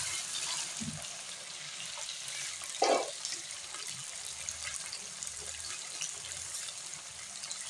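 Small boneless chicken pieces sizzling as they fry in oil in a nonstick pan: a steady hiss with fine crackles, and one brief louder sound about three seconds in.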